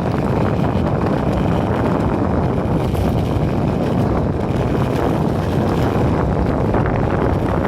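Steady, loud wind buffeting the phone's microphone during a ride on an electric skateboard, a dense, even rumble with no distinct events.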